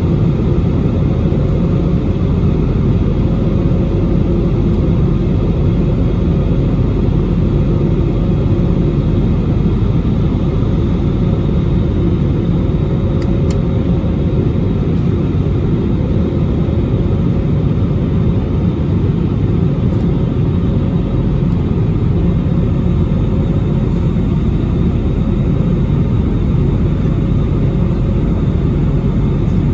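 Steady roar of an Airbus A320neo's jet engines and airflow heard inside the passenger cabin in flight after takeoff, with a faint steady hum under it.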